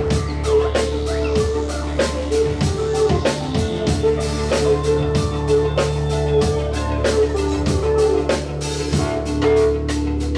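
A live band playing an instrumental passage, with a drum kit keeping a steady beat under sustained instrument notes.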